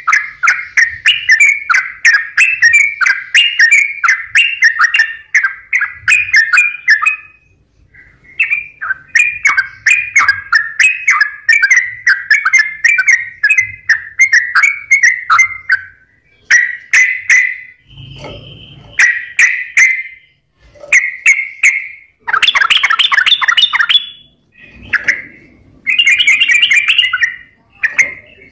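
Yellow-vented bulbul (trucukan) singing vigorously in long runs of rapid, bubbly, gurgling notes. Near the end come shorter phrases broken by harsher scratchy chatters.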